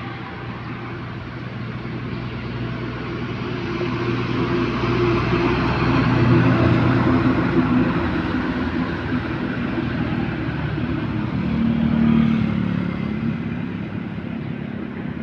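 Large road vehicles passing close by with their engines running and tyre noise. The sound swells to its loudest about halfway through, and a second vehicle's engine swells again near the end.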